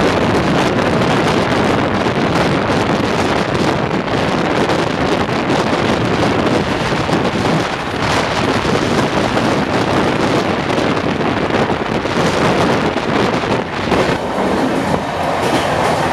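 Gatimaan Express passenger coaches running at speed, heard from an open coach door: a loud, steady rush of wheel-on-rail noise mixed with wind.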